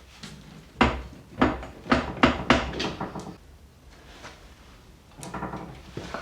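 Metal knocks and clunks, about six in quick succession between one and three seconds in, then quieter handling noises, as a Land Rover Series gearbox is worked onto the back of a 200Tdi engine to get it to engage and seat square.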